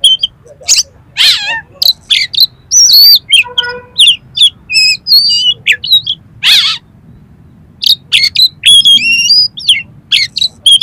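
Oriental magpie-robin (kacer) singing loudly: a rapid string of varied short whistles, chirps and harsh notes, with a short pause a little past the middle.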